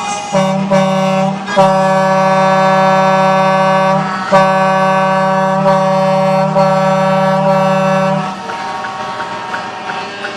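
Truck air horn blowing: a short blast, then two long held blasts, the last stopping about eight seconds in, with fainter horn toots after.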